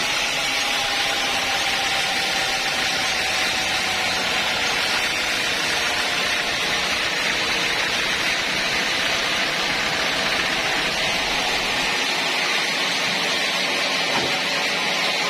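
Sawmill saw running steadily, cutting through a mahogany log with an even hiss.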